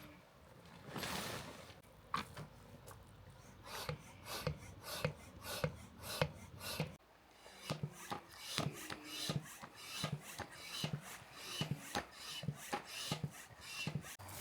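Footsteps walking at about two steps a second, each step a short crunching scuff, with a short pause about seven seconds in.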